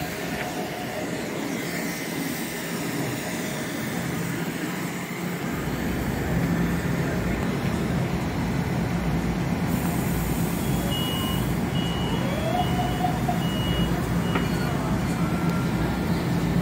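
Metro-North M7A electric commuter train standing at a platform with its doors open, its equipment giving a steady hum that deepens into a louder low hum about five seconds in. Near the middle, a run of about five short high beeps sounds: the door-closing warning before departure.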